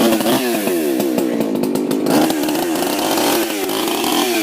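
Ported Husqvarna 357 XP chainsaw running, its engine revving up and down several times.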